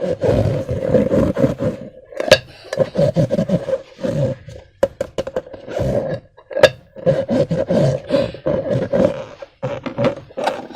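Hands squishing and stretching slime: irregular wet, sticky squelches and crackles in quick bursts, with a sharp snap twice.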